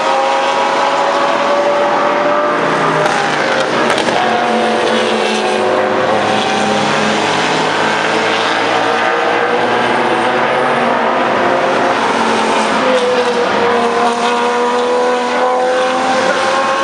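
Race car engines running hard past the track, several at once, their pitch climbing steadily as they accelerate, with a drop about thirteen seconds in as one shifts gear.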